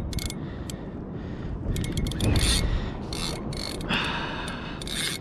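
Fishing reel clicking in short, irregular ratchet-like bursts while fighting a hooked fish that is diving and pulling hard, over a low rumble of wind and water.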